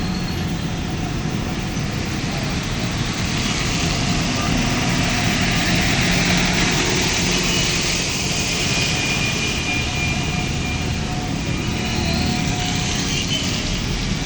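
Motor traffic driving through rainwater on a road: a low steady engine hum under a rush of tyre and water-spray noise that swells about four seconds in and eases after about eight seconds, as a vehicle passes.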